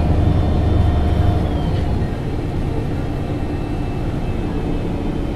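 MAN NG 273 T4 LPG articulated bus running on liquefied petroleum gas, its engine pulling under load. The low engine note eases slightly about two seconds in.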